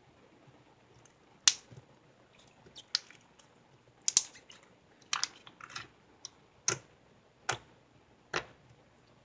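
A series of sharp clicks and crackles at irregular spacing, about a dozen in all, some in quick little clusters. The loudest comes about a second and a half in.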